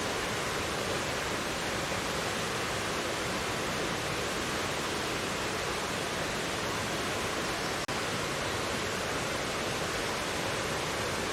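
Mountain valley stream rushing steadily over rocks, an even wash of water noise. A split-second dropout about eight seconds in.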